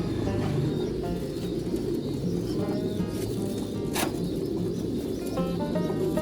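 Many domestic pigeons cooing together in a continuous low murmur, over background music. A single sharp click about four seconds in.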